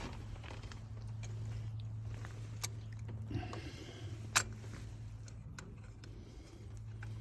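A few sharp clicks and a short scrape as a socket on an extension is worked to thread a new spark plug into the cylinder head by hand, over a steady low hum.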